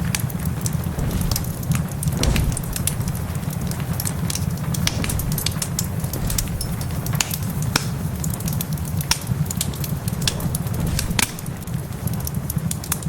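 Wood fire crackling in a fireplace, with irregular sharp pops and snaps over a steady low rumble and the hiss of rain.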